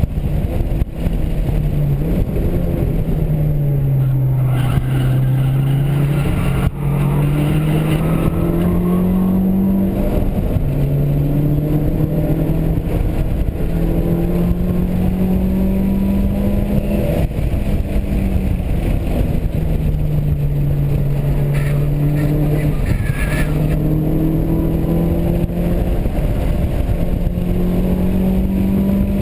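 Mitsubishi Lancer Evolution VIII's turbocharged 2.0-litre four-cylinder engine, heard from inside the cabin while lapping a race track. Its pitch climbs in long pulls and drops back at each gear change, about 10 and 17 seconds in, then falls for a while before pulling up again.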